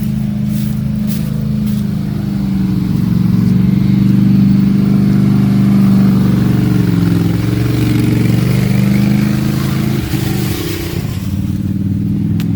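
Toyota Tacoma pickup's engine running steadily at a low, even note, which wavers about ten seconds in.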